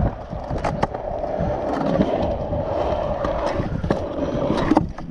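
Stunt scooter wheels rolling steadily, with a few sharp clacks near the start and again near the end.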